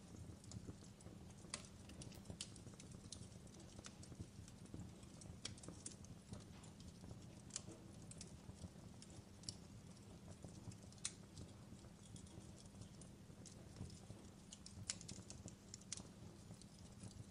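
Fireplace recording: a wood fire crackling, with irregular sharp pops and snaps over a quiet low rumble.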